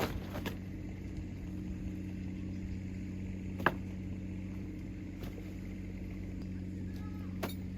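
Steady low mechanical hum, with one sharp click about halfway through and a few faint clicks near the end.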